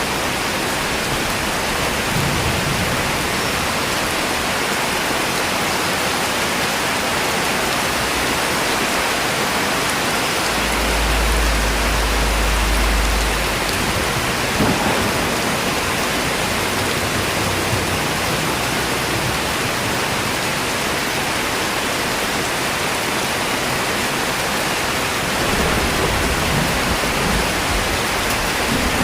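Steady rain falling, an even hiss without a break. About ten seconds in, a low rumble runs for about three seconds.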